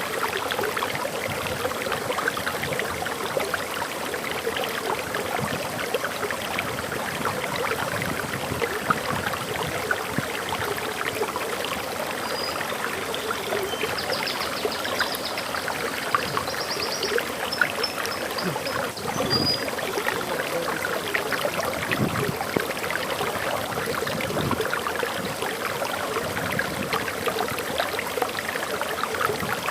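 Waterfall in a forest: the steady rushing and splashing of falling water, with a few brief high bird chirps and a short trill around the middle.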